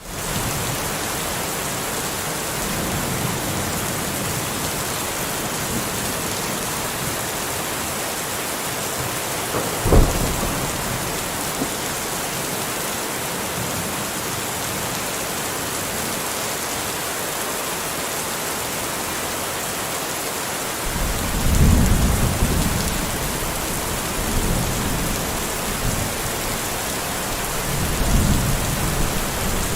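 Steady rain with thunder: a sharp crack about ten seconds in, then low rolling rumbles twice in the last third.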